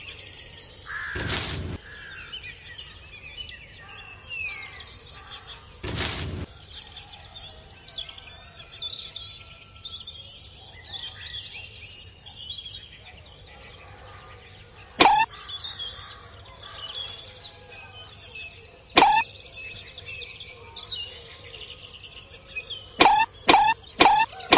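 Many small birds chirping and calling without a break. Two brief rushes of noise come early, and sharp knocks sound once about 15 s in, again at 19 s, and in a quick run of five near the end.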